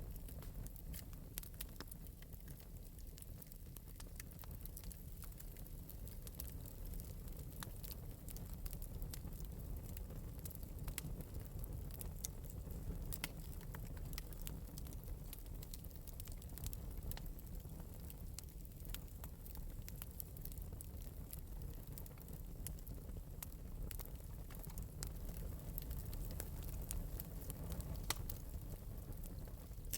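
Fire in an open metal fireplace crackling lightly, with many scattered sharp pops over a steady low rumble.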